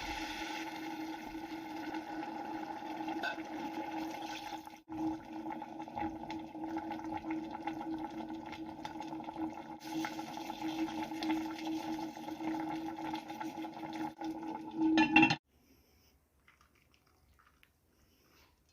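Steady kitchen noise: a constant hum with a hiss over it, briefly broken twice. It cuts off suddenly about three-quarters of the way through, leaving near silence.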